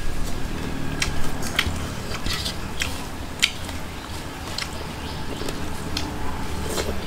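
Close-up chewing of a mouthful of rice, with wet mouth smacks and sharp clicks scattered through it, over a low steady hum.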